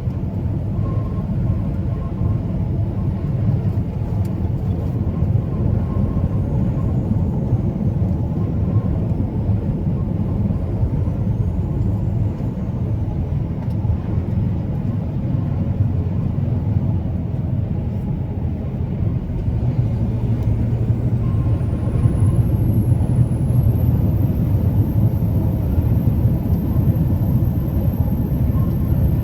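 Truck on the move: a steady low rumble of engine and road noise.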